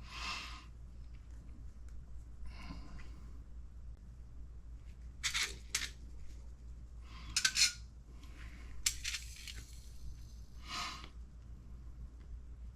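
Small ball-differential balls clinking as they are handled, in about six short, separate clinks.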